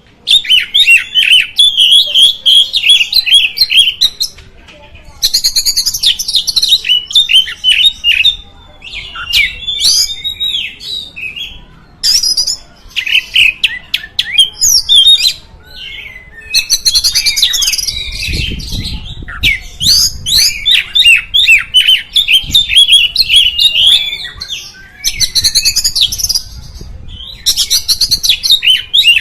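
Oriental magpie-robin (kacer) singing: a long run of fast, varied phrases of chirps and whistles, broken by short pauses.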